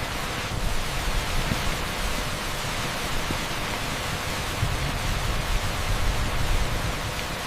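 Torrential rain pouring onto an asphalt street: a steady, even hiss of dense downpour, blended with strong pink noise.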